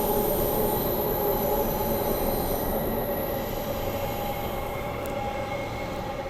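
Transperth B-series electric multiple unit running, heard from inside the carriage: a steady rumble of wheels on rail with a held, high, whining squeal over it, gradually getting quieter.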